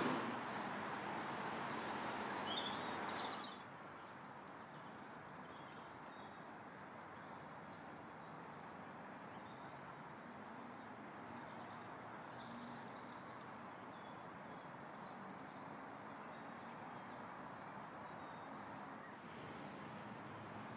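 Small birds calling with many short, high chirps over a steady background rumble of traffic. The rumble is louder for the first three seconds or so, then drops.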